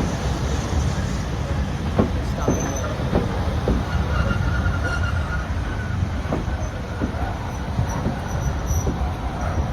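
Railway train running on the line: a steady low rumble with irregular sharp clicks and knocks from the wheels, and a faint wheel squeal about four seconds in.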